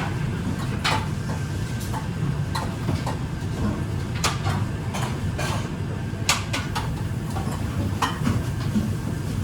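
Kitchen clatter: dishes, pans and utensils clink and knock irregularly, more than once a second, over a steady low rumble.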